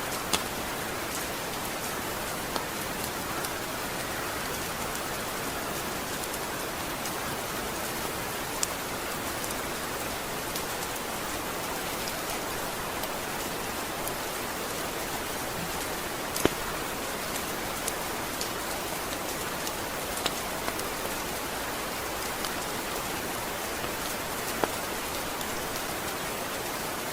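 Steady rain falling, a continuous hiss with scattered sharp drips and taps of drops landing on a hard surface, the loudest about halfway through.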